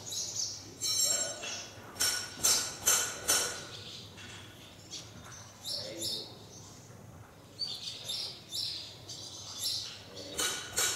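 Small birds chirping over and over in short, high calls, mixed with a few sharp clicks and knocks.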